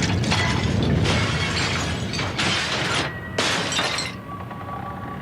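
Earthquake sound effects: a deep rumble with repeated crashes and breaking glass, easing off about four seconds in.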